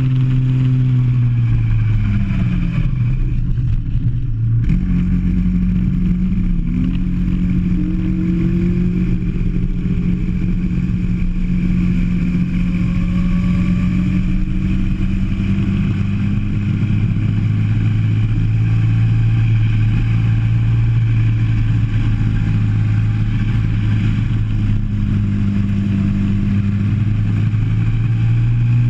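Kart engine heard from onboard as the kart laps, the revs dropping about two seconds in and climbing again about five seconds in, then rising and falling through the corners.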